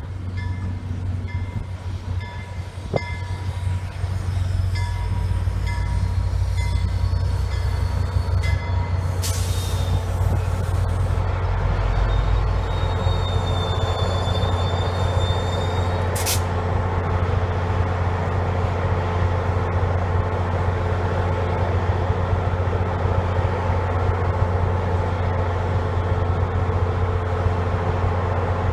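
MBTA commuter rail diesel locomotive approaching slowly, its engine a steady deep drone that grows louder a few seconds in, along with the rumble of the train. A repeating crossing bell dings at the start. A burst of hiss comes about nine seconds in, and a brief high squeal follows around thirteen seconds.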